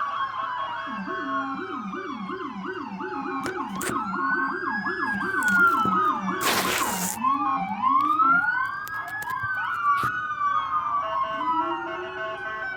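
Several emergency-vehicle sirens sounding together, some in a fast yelp and others in a slow wail rising and falling. A brief loud burst of noise cuts across them about six and a half seconds in.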